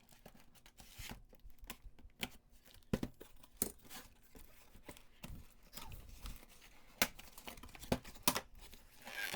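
Toy packaging being torn and handled as a plush toy is taken out of its box: scattered faint crackles and sharp clicks, with a few louder snaps about three, seven and eight seconds in.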